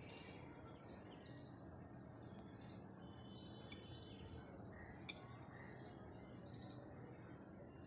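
Faint chirping of small birds: many short high chirps following one another every half second or so, over a low steady background noise. A single sharp click about five seconds in.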